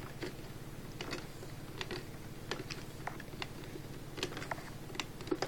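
Handling noise from an upright vacuum cleaner: scattered light clicks and taps over a faint steady hum.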